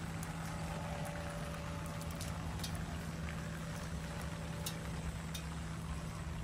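Steady rainfall, with scattered sharp ticks of drops striking nearby surfaces. A steady low hum runs underneath.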